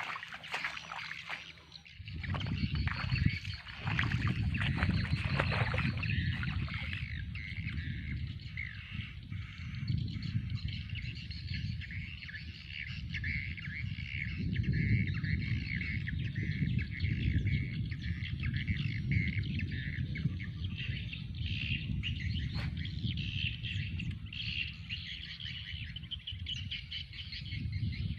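Many birds chirping continuously outdoors, over a low steady rumble, with a few sharp clicks in the first few seconds.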